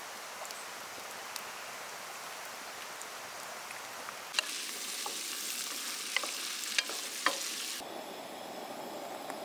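Food sizzling as it fries in a pan over the camp stove or barbecue, with a few sharp clicks of a utensil against the pan as it is stirred. The sizzle grows louder about halfway through and changes abruptly to a steadier hiss near the end.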